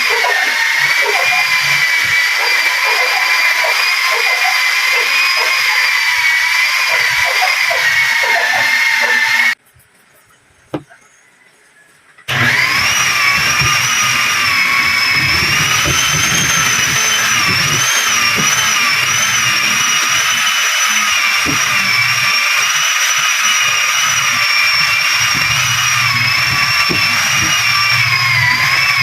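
Power tool running with a steady, high whine. It stops abruptly for about three seconds at about a third of the way in, then runs again with its pitch wavering slightly.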